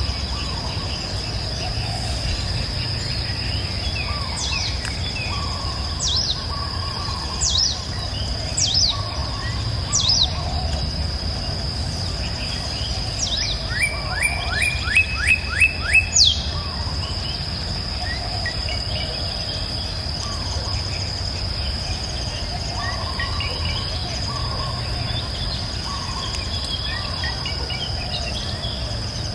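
Wild birds calling: sharp, falling whistles come several times in the first half, and a quick run of about six short notes follows around the middle, with fainter chirps scattered throughout. Under them runs a steady high insect buzz and a low background rumble.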